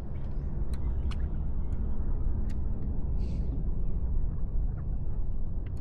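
Steady low rumble, with several sharp clicks in the first couple of seconds and a short hiss about three seconds in.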